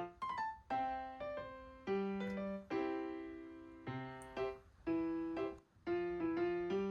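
Background music: a piano plays a slow run of notes and chords, each struck and left to fade.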